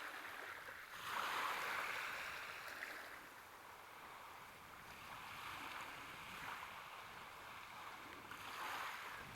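Small waves washing onto a shore, one surge building about a second in and fading over a couple of seconds, with another wash near the end.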